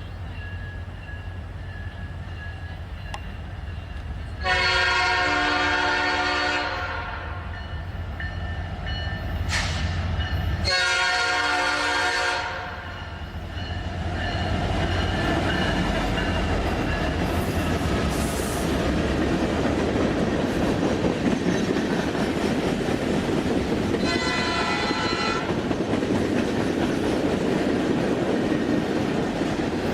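Diesel locomotive air horn sounding two long blasts, then a short one, with a fourth starting right at the end: the pattern of the standard grade-crossing signal. After the second blast the steady rumble and rattle of the train's wheels rolling on the rails takes over.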